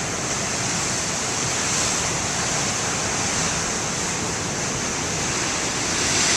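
Big ocean waves breaking and surf washing in: a continuous rush of water noise that swells slightly about two seconds in and again near the end.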